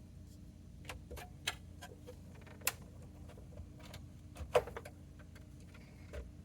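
Irregular light clicks and knocks of metal parts and tools being handled while an oscilloscope chassis is taken apart, over a faint steady hum. The two sharpest knocks come about two and a half and four and a half seconds in.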